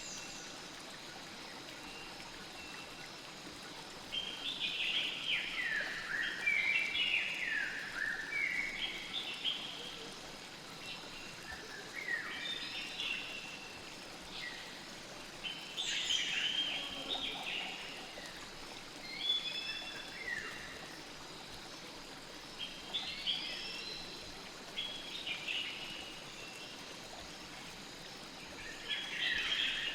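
Birds singing short, falling, warbling phrases in bursts every few seconds over a steady hiss of flowing river water.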